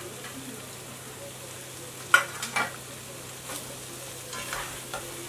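Sliced chicken sausages and salami frying in a pan with onions and egg: a steady low sizzle, with a metal turner scraping and knocking against the pan a few times, the sharpest knock about two seconds in.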